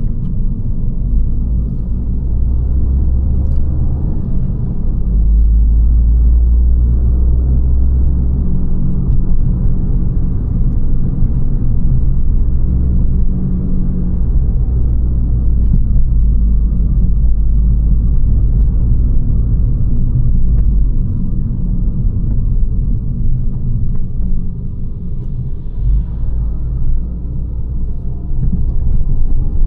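Abarth 595 Competizione's 1.4 T-Jet turbocharged four-cylinder and Record Monza exhaust heard on the move as a deep, steady drone. It grows louder a few seconds in, eases off about two-thirds of the way through, then picks up again near the end.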